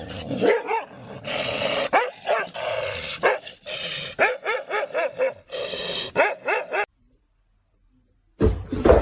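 A dog barking and yipping in quick repeated short calls for about seven seconds, then cutting off abruptly; a brief, louder noisy burst follows near the end.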